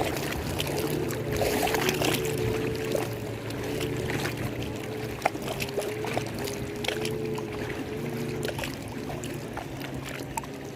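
Lake water lapping and sloshing, with scattered small splashes and clicks over a steady low hum.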